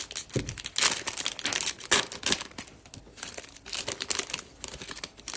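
Irregular crinkling and rustling of baseball trading cards and their plastic pack wrapping being handled as the cards are flipped through, with a soft thud about half a second in.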